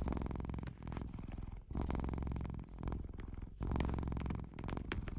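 Domestic cat purring close to the microphone, the purr coming in stretches of about a second, one per breath.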